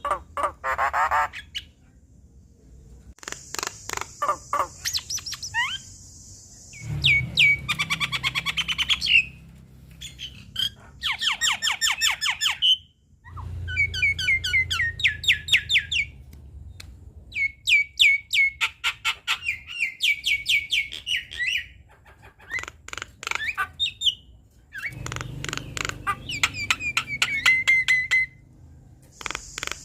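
Javan myna singing a long, varied song: rapid runs of repeated notes and chattering trills in phrases of a few seconds, broken by short pauses, with squawking notes mixed in.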